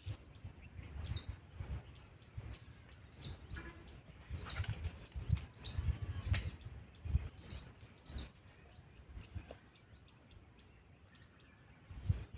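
Birds chirping with short, high, repeated calls about once a second, fading out in the last few seconds. Low rumbles and a few sharp knocks sound underneath.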